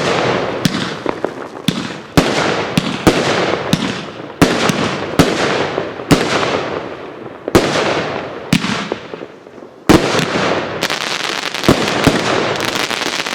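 Consumer fireworks cake firing a rapid series of shots. Each bang fades into a short hissing tail. Dense crackling of strobe effects builds near the end.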